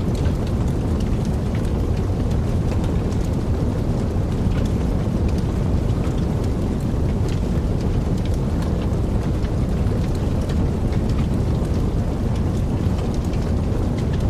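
Wood fire burning in a fireplace: a steady low rumble of flame with frequent small crackles and pops at irregular times.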